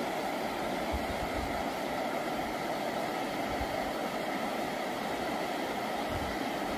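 Steady rush of river water, with a few brief low wind buffets on the microphone.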